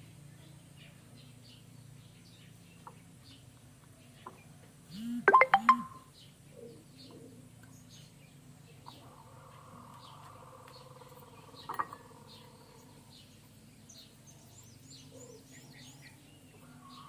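Birds chirping faintly and repeatedly over a steady low hum, with one short, loud pitched bird call about five seconds in and another sharp call near twelve seconds.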